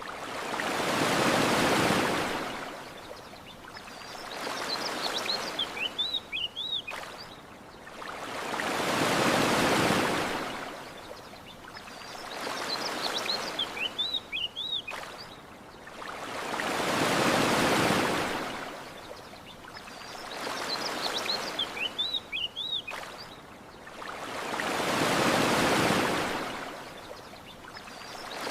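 Ocean surf washing onto a shore and drawing back, a bigger wave about every eight seconds with a softer one between. Small birds chirp briefly in the quieter stretches.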